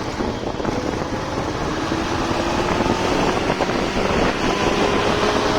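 Motorcycle engine running on the move, with wind and road noise; the engine tone drifts slightly in pitch.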